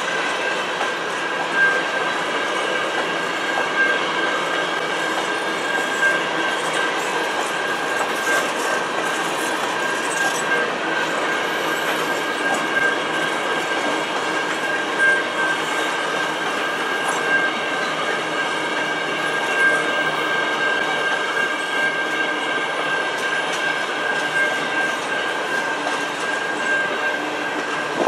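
Freight train of covered hopper cars rolling past at a level crossing: a steady rumble and clatter of steel wheels on the rails, with a constant high-pitched tone over it.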